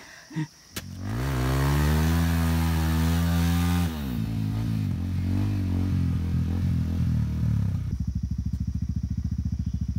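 Dirt bike engine revving up and holding high revs for about three seconds, then dropping to lower, uneven revs, and settling into a steady idle near the end.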